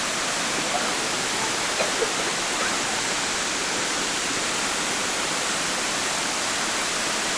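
Steady rushing of water, an even noise with no breaks or change in level, with a few faint short chirps over it.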